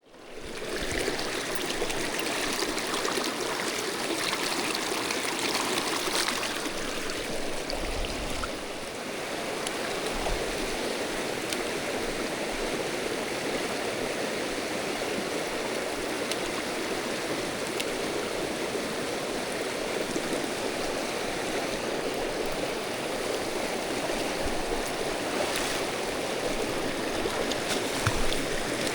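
Mountain stream water rushing over rocks, a steady rush that fades in at the start.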